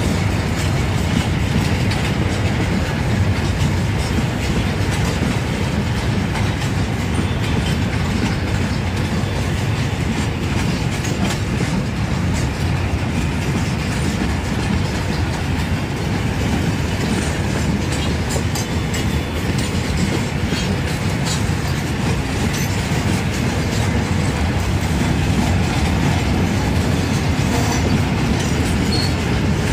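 Empty freight wagons rolling past: a steady rumble of steel wheels on the rails, with occasional short clicks.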